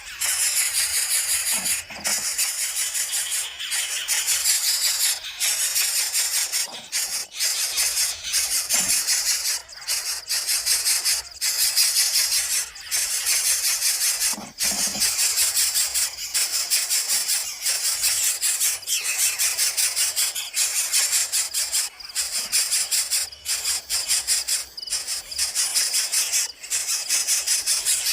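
Coucal nestlings giving a continuous high-pitched hissing squeal, broken by many short pauses.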